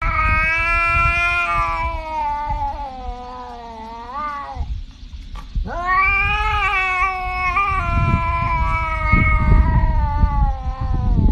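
A cat yowling in two long drawn-out calls, the first about four seconds and the second over five, each wavering and sliding in pitch with a bend at its end.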